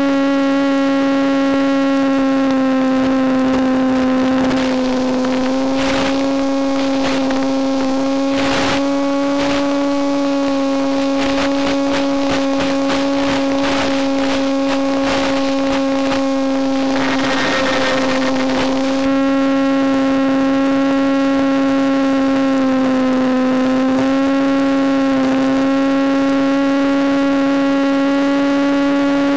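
Electric motor and propeller of a Penguin FPV model plane buzzing at a steady pitch, dipping slightly twice as the throttle eases. Through the middle, crackling bursts of noise lie over the buzz, thickest a little past halfway.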